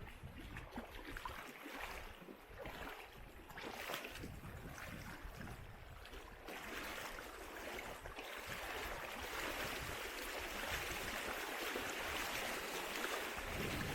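River water rushing, growing louder and fuller from about six seconds in, with uneven thuds of footsteps on the trail in the first half.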